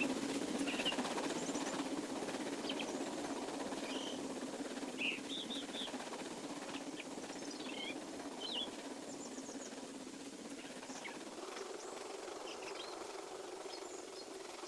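Small birds chirping in short, scattered calls over a steady low train rumble that slowly fades away, as a departing train recedes.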